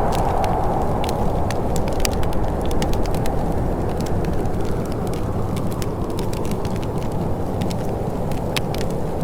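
Wood fire in a fireplace crackling, with frequent sharp pops over a steady low rumble; a whooshing of wind fades away over the first few seconds.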